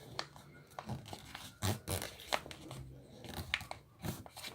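Sheet of paper being handled and creased while a paper airplane is folded: quiet, irregular rustles and small crackling clicks.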